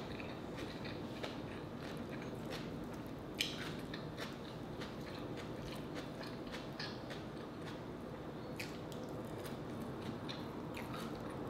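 Close-miked chewing and mouth sounds of a person eating rotisserie chicken, with many small scattered clicks and crackles as the meat and skin are pulled apart by hand; one sharper click comes about three and a half seconds in.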